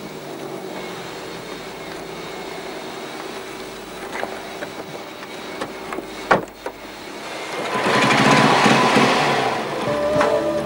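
A vintage motorcycle engine starts and runs, the rough, loud engine noise swelling up about eight seconds in. Before it there is a steady low hum and a sharp knock about six seconds in.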